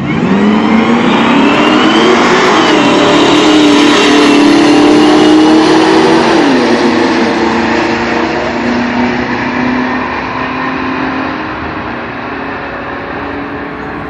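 Kenne Bell–supercharged V8 of a Ford F-150 Harley-Davidson pickup accelerating hard at full throttle. The engine revs climb, drop once at a gear change about six seconds in, then climb again while the sound slowly fades as the truck pulls away.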